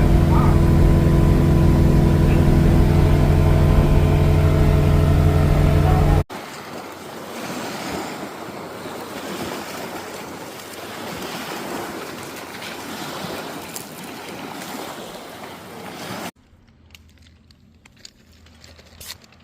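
A boat's motor running steadily and loud, cut off abruptly about six seconds in by the rush of wind and water. That gives way just as suddenly near the end to a much quieter stretch with a few faint clicks.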